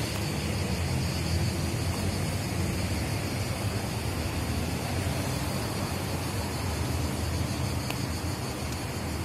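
Electric commuter train passing close by: a steady rumble of wheels on the rails and running gear, with an even hiss over it.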